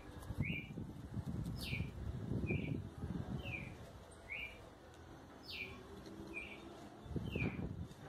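A small bird chirping over and over: short, sharp chirps a little under a second apart, some sliding down steeply from higher up. Under them runs a low rustling noise, strongest in the first few seconds and again near the end.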